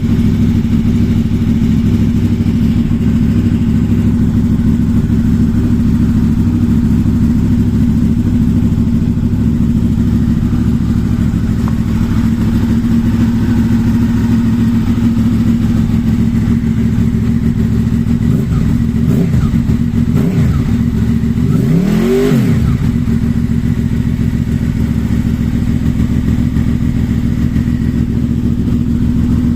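Honda VFR800's V4 engine breathing through a Kucelj aftermarket exhaust, idling steadily. About two-thirds of the way in the throttle is blipped three times in quick succession, the third rev the highest, before it settles back to idle.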